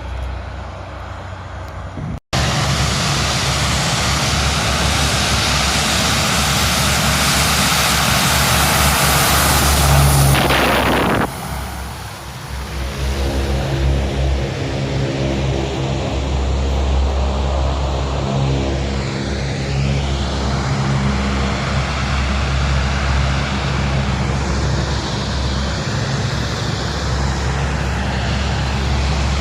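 Aircraft passing overhead: a loud rushing flyby that builds and then falls away sharply about eleven seconds in, followed by a steady aircraft engine drone.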